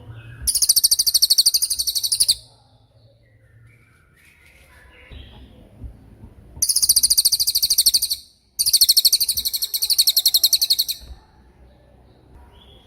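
A cililin songbird sings its 'tembakan' ('shooting') phrase: three loud bursts of very high, rapid-fire trilled notes. Each burst lasts about one and a half to two seconds, with quieter pauses between the first and the second.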